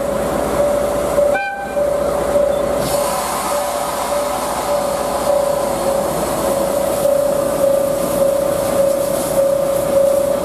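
A DE10 diesel locomotive coupled to the C11 steam locomotive moving off slowly after the green-flag departure signal, under a steady high ringing tone. A brief toot sounds about a second and a half in.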